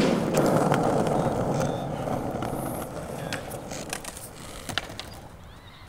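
Skateboard wheels rolling on pavement: a steady rumble, loudest at the start and fading away over about four seconds, with a few sharp clicks.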